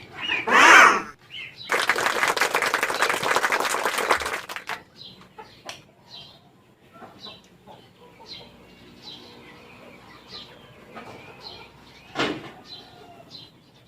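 A loud rustling, ripping noise for about three seconds, like fabric or hook-and-loop being handled, followed by small birds chirping faintly and repeatedly. There is a single sharp knock near the end.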